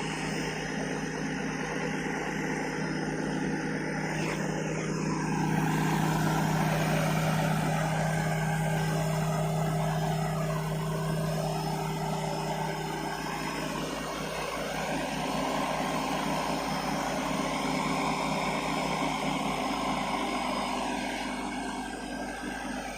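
Heavy diesel truck engine running steadily under load, with a constant low drone that grows somewhat louder for several seconds in the middle.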